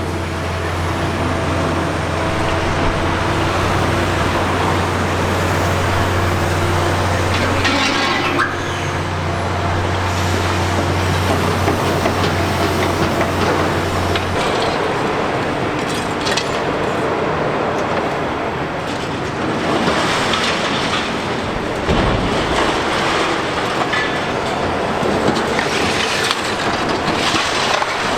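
Liebherr R 960 high-reach demolition excavator at work: a continuous noisy din of building material being crushed and breaking up, over the machine's running. A steady low hum stops about halfway through.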